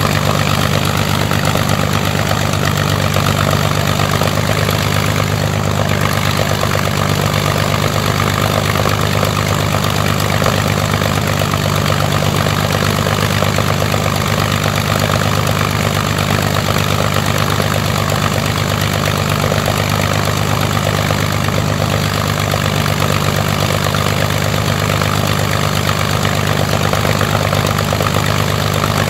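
Rolls-Royce Merlin V12 aero engine running steadily at a constant speed on a ground test run, its propeller turning in fine pitch.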